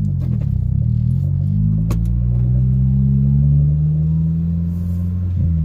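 Turbocharged Honda Civic EG's four-cylinder engine heard from inside the cabin while driving, its pitch climbing slowly as it pulls, then dropping sharply near the end. A sharp click about two seconds in, and a light rattle.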